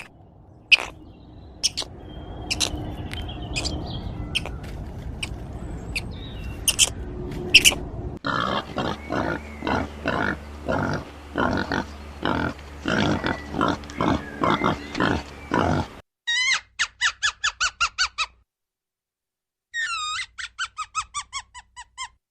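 Animal calls in separate stretches: sharp clicks over a noisy background; then a run of short pitched calls, about two a second; then two brief bursts of rapid, high calls.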